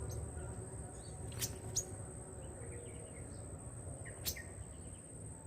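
Faint chirps of small birds over a steady, high-pitched insect drone. A few sharp clicks stand out, and there is a low outdoor rumble underneath.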